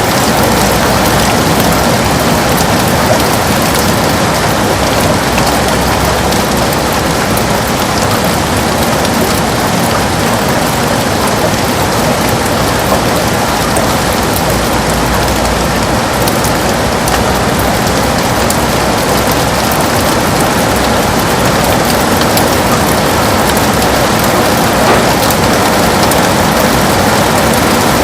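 Heavy rain falling steadily on a window, a dense even hiss with many small drop taps.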